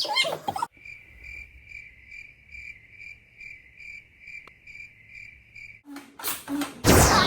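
Cricket chirping, a steady pulsing chirp about three times a second that starts and stops abruptly over dead silence, like a dropped-in sound effect. Near the end a loud sound sweeping downward in pitch begins.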